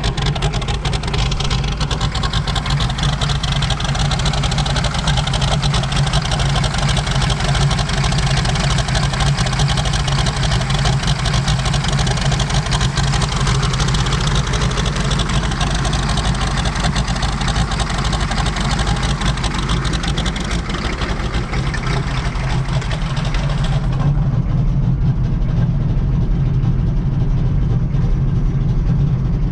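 6.5-litre V8 diesel idling steadily while it warms up after a cold start. About three-quarters of the way through, the high hiss drops away and the low engine drone is left.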